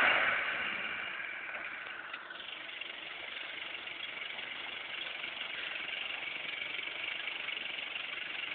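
Toyota Land Cruiser FJ40 engine running. It is louder at the start and drops back within the first second or so, then runs steadily.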